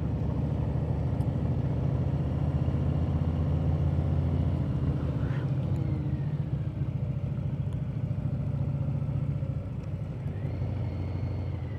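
Harley-Davidson motorcycle V-twin engine running slowly with a steady low rumble.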